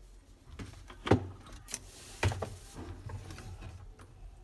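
A few sharp knocks and clicks, the loudest about a second in and another just after two seconds, with smaller clicks between.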